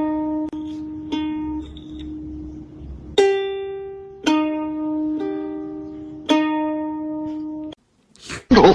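Background music: a plucked ukulele playing slow single notes, each ringing on. It stops suddenly near the end, where a short loud noisy sound begins.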